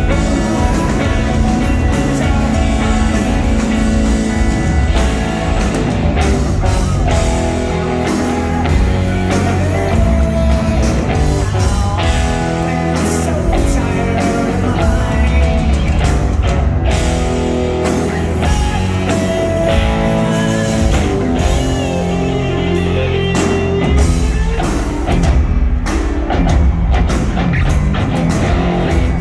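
A rock band playing live: electric guitars over bass and a drum kit, loud and continuous.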